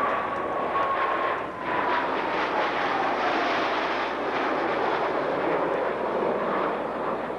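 Military jet aircraft passing by: a steady jet-engine noise with a whine that slowly falls in pitch as they go past.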